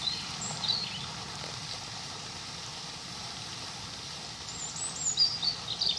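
Steady rush of running water, with a small songbird's short high chirps and trills about half a second in and again near the end.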